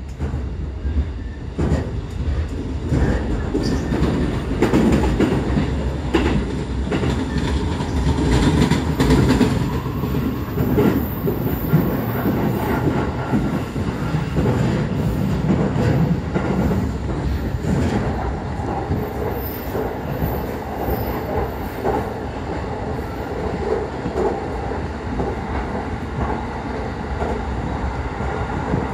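Cabin sound of a JR Keiyo Line rapid electric train running at speed: a steady rumble of wheels on rail with scattered clicks. A high thin wheel squeal comes in briefly twice, about a third and two-thirds of the way through.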